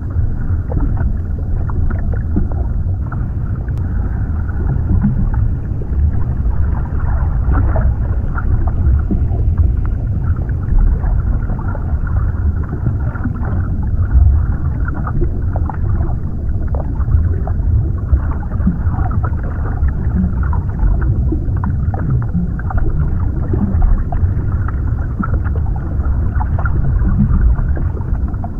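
Underwater ambience: a steady deep rumble of water with faint scattered crackles and small bubbling pops.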